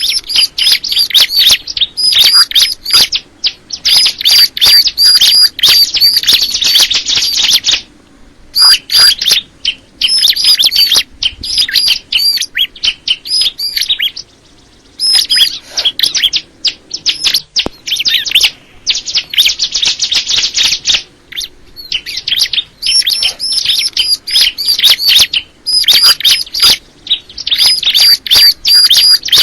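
Ciblek kristal, a prinia kept as a songbird, singing loudly in long bouts of rapid, sharp, high chirps with short pauses between bouts.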